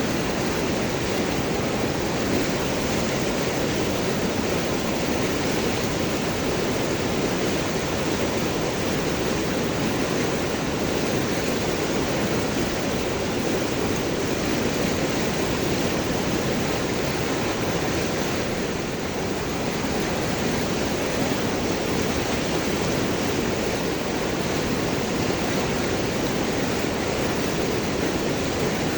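River water rushing and gurgling over large rocks, a steady full rush with a brief slight dip in level a little past halfway.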